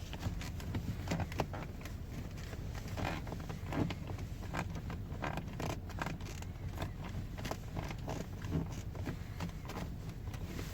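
Skoda Kodiaq door handles pulled over and over, giving short, irregular creaks and clicks: the handle creak the owner is checking, which he finds worse once the car is warm.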